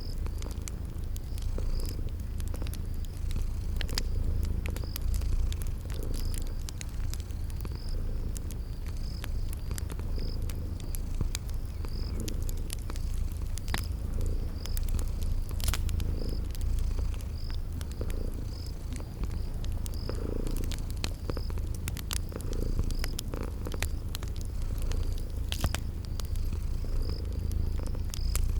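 Domestic cat purring steadily, a low rumble that swells with each breath. Behind it, a cricket chirps about once a second and a wood fire crackles with scattered sharp pops.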